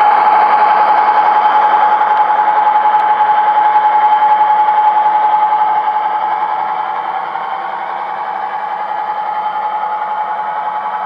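Model diesel shunter's TTS sound decoder playing diesel engine running sound through the loco's small speaker, with a steady whine over it. It gets quieter about six seconds in.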